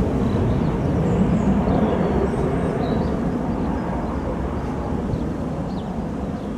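Jet aircraft engine noise: a steady low rumble that slowly fades.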